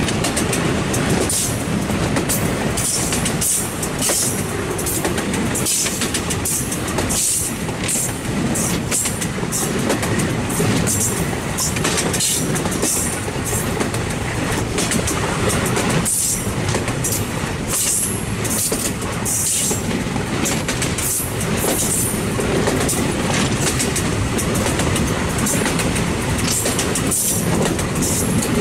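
Benapole Commuter train running along the track: a steady rumble of wheels on the rails, with frequent sharp clicks.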